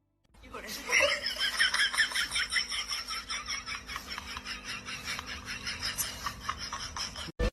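Someone laughing: a rapid, steady run of short high-pitched bursts.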